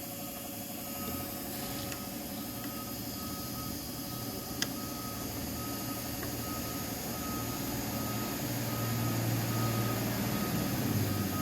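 A vehicle's reversing alarm beeping at one pitch, about two beeps a second, over a low engine rumble that grows louder in the second half. A single sharp click about four and a half seconds in.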